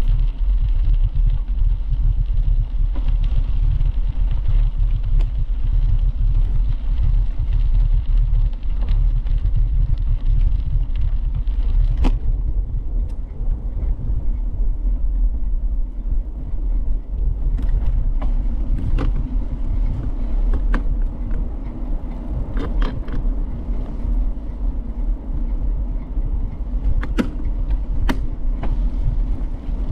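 Wind buffeting the microphone of a bike-mounted camera during a ride, a loud, unsteady low rumble. Scattered sharp clicks and rattles come through, mostly in the second half.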